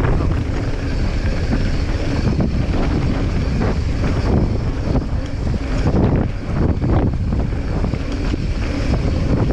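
Wind rushing over the microphone of a mountain bike descending a trail, with the bike's rolling rumble and frequent short knocks and rattles over rough ground.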